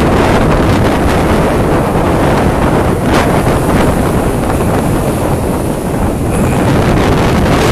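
Strong storm wind buffeting the microphone in a loud, steady rumble, with breaking surf underneath.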